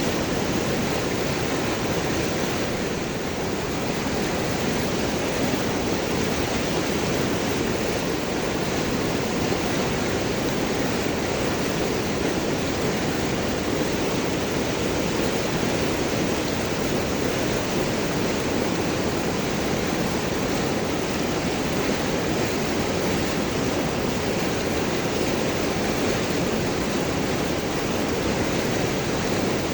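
River water rushing and gurgling over and around large rocks, a steady, even flow.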